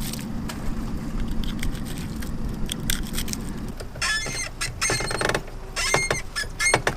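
A boat's engine running steadily for the first three seconds or so, then dropping away. From about four seconds in come a series of short, high-pitched squeaks, several in a row, among light clicks and knocks.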